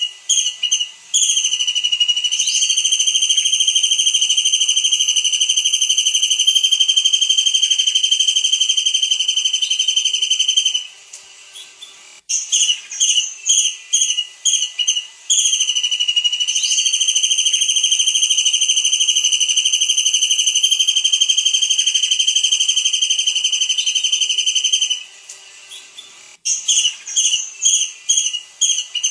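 Tengkek udang (kingfisher) song: a run of short, high, falling whistled notes leading into a long, steady, high trilled whistle held for about eight to ten seconds. The pattern repeats twice, ending in another run of short notes.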